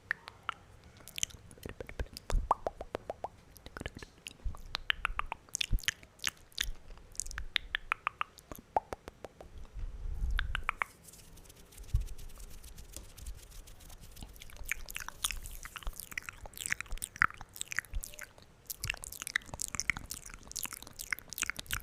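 Loud, wet mouth sounds close to the microphone: tongue clicks and lip smacks in quick runs of clicks, thickest near the end.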